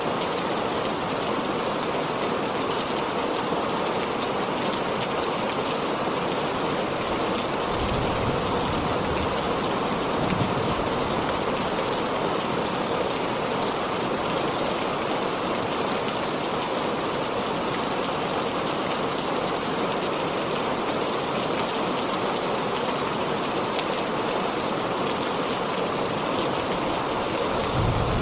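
Heavy rain falling steadily, a dense even hiss, with a few brief low rumbles about eight and ten seconds in and again near the end.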